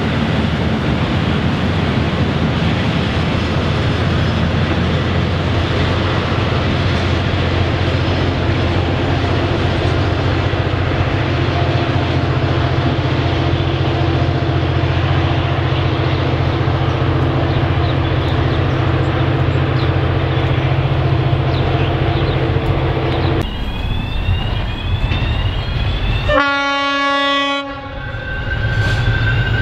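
Locomotive-hauled passenger train rumbling steadily as it pulls away, with a steady low engine hum. Then a G-class diesel locomotive gives one horn blast of about a second and a half near the end as it approaches.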